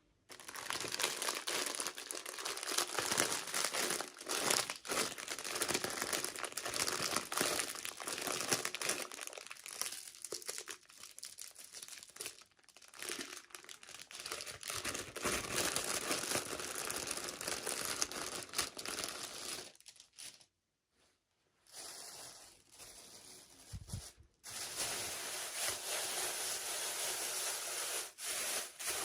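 Plastic packaging being crinkled and torn open by hand, a dense crackle with small clicks. It breaks off for a moment about two-thirds of the way through and starts again.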